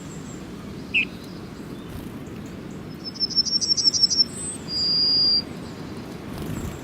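Small birds calling: a short falling chirp about a second in, then a rapid trill of high, evenly spaced notes, followed by a single held high note lasting about a second.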